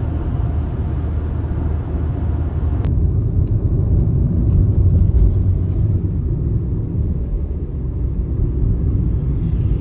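Steady low rumble of a moving vehicle, with a single sharp click about three seconds in.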